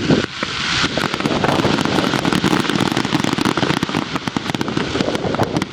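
Aerial fireworks going off in a dense run of rapid crackling pops, dozens of sharp cracks overlapping.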